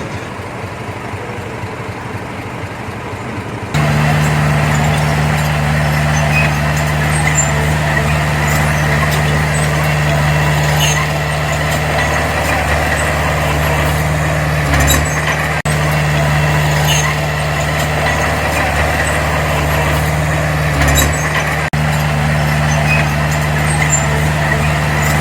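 Heavy earthmoving machine's diesel engine running steadily with a constant low drone, stepping up sharply in loudness about four seconds in and holding there, with two brief dropouts later on.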